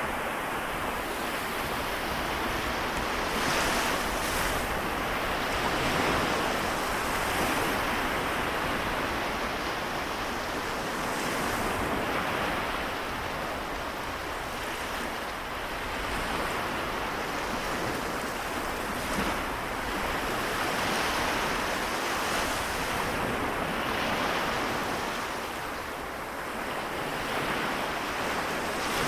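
Small waves of the Seto Inland Sea washing on the shore in a steady wash that swells and eases every few seconds, with some wind on the microphone.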